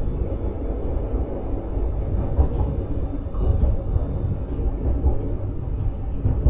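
Electric Sprinter train running along the track, heard from inside the driver's cab: a steady low rumble of wheels and running gear, with a few faint ticks.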